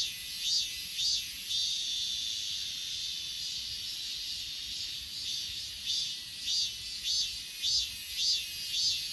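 Grass insects chirping in chorus: short chirps repeat about twice a second, over a steady high-pitched trilling of other insects. The chirps blur together for a few seconds in the middle.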